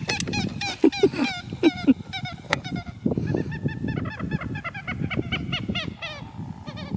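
A group of waterfowl honking, many short calls overlapping in quick succession, thinning out near the end.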